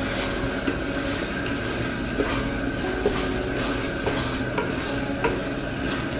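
Chicken palapa sizzling in a pan as it is stirred, the utensil clicking and scraping against the pan about every half second. The sauce has cooked down thick and sticky, close to done.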